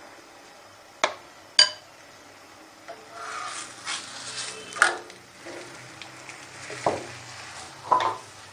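Paratha frying in ghee on a hot tawa griddle, starting to sizzle about three seconds in as it is turned with a metal spatula. Sharp metal clinks against the pan come twice about a second in, and more knocks and scrapes follow through the sizzle.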